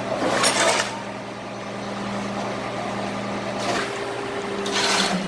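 A heavy truck engine idling with a steady low hum, broken by two short bursts of rushing noise, one about half a second in and one near the end.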